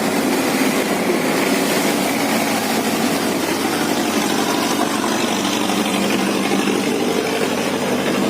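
Boat engines running steadily as the boats pass through the sluice gate.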